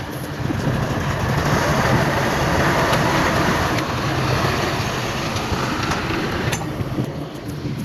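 Heavy diesel earth-moving machinery running with a low rumble, under a broad rushing noise that swells about half a second in and eases off after a few seconds. There is a sharp knock near the end.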